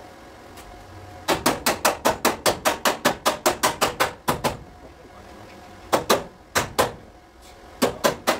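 Hammer striking a car body panel in a fast run of sharp metal taps, about seven a second for roughly three seconds, then a few single blows and another quick cluster near the end: panel beating to work out a dent.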